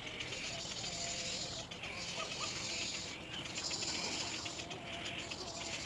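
Little egret chick giving harsh, hissing rasping calls, each lasting a second or more, repeated with short breaks: begging calls for its parent.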